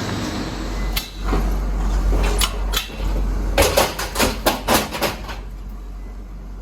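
Clanks and knocks of a skid being loaded into a box truck's cargo area, ending in a quick run of about eight sharp knocks between three and a half and five seconds in, over a low rumble that drops away just after.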